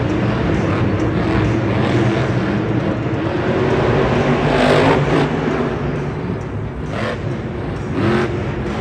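Monster truck engine running and revving, its pitch rising and falling, with a strong rev about five seconds in and another just before the end.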